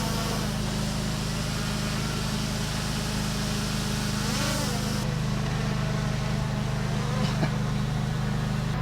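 Small camera drone hovering in flight on newly replaced propeller blades: a steady, even buzzing hum.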